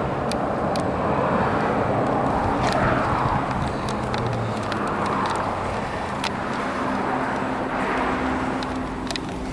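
Road traffic going by: a steady noise of passing vehicles that swells and fades several times, over a low steady hum, with a few light clicks.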